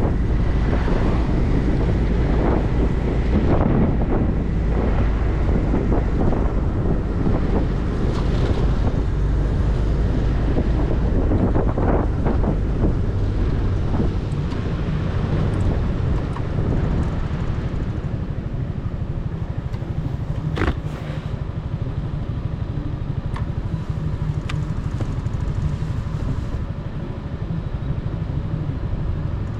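Motorcycle engine running while riding, with wind rumbling on the microphone. It quietens about halfway through, leaving a steadier engine hum, and there is one sharp click later on.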